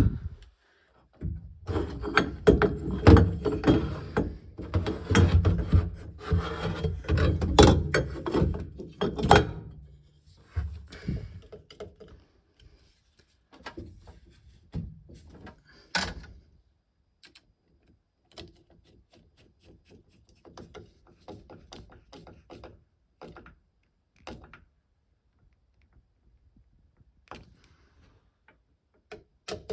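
Hands and tools working boiler parts as a plate heat exchanger is fitted: a dense stretch of rubbing and knocks for the first ten seconds or so, then scattered clicks and taps.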